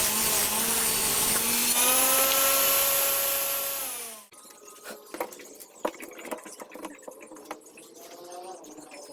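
An electric power tool runs with a steady motor whine and stops abruptly about four seconds in. Light clicks and knocks of tools and wood being handled follow.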